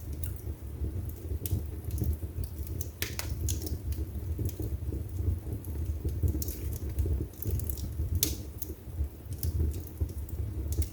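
Wood fire burning in a fireplace: a steady low rumble of flame with irregular sharp crackles and pops from the burning logs, a few each second.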